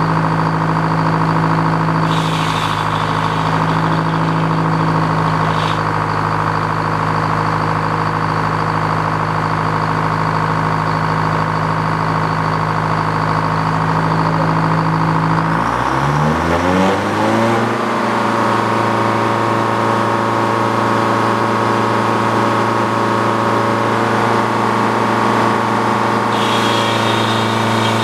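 The engine powering an antique Frick sawmill running steadily. About two-thirds of the way through, its pitch rises smoothly as it speeds up, then holds steady at the higher speed, with short stretches of higher-pitched noise from the mill.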